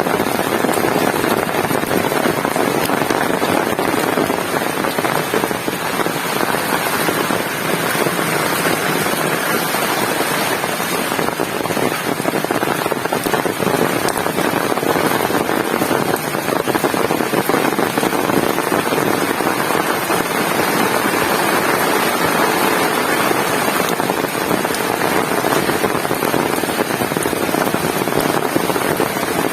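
Heavy rain falling steadily, a dense, even patter of drops on the ground and surfaces.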